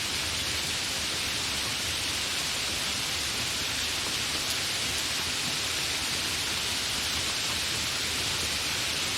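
Steady, fairly heavy rain, an even hiss with no thunder and no change in level.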